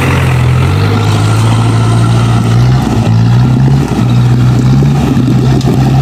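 Off-road 4x4's engine running steadily under load, its low drone shifting pitch slightly a couple of times.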